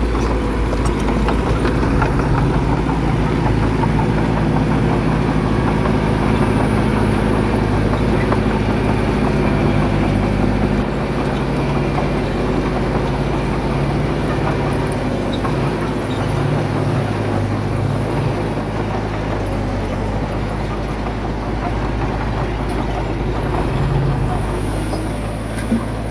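Heavy diesel engine of earthmoving machinery running steadily at working revs, with a slight change in its note about halfway through.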